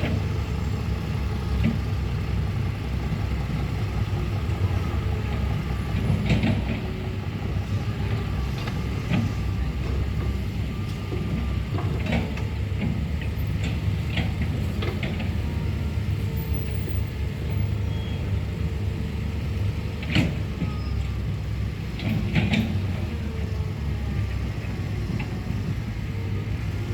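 Heavy diesel engine running steadily, with a few sharp metallic clanks and a faint wavering whine.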